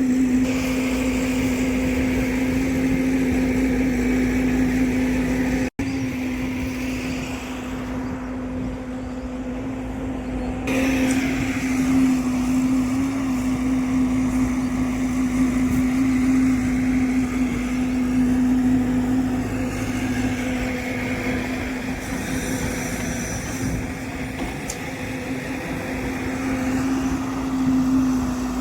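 A heavy diesel engine runs steadily with a constant hum. It cuts out for an instant about six seconds in.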